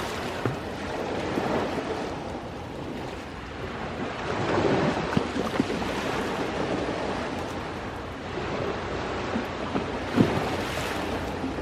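Ocean waves washing onto the shore in slow swells, one building about four seconds in and another near the end. A few sharp pops, likely from a crackling wood fire, sound over the surf.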